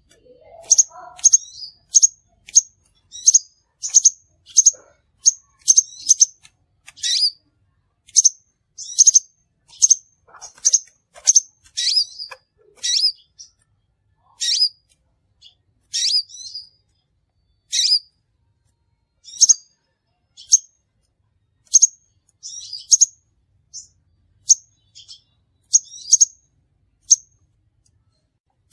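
Crimson sunbird (sepah raja) giving a long series of short, sharp, high chirps. They come close together, about one a second or faster, in the first half, and space out to one every second or two later on.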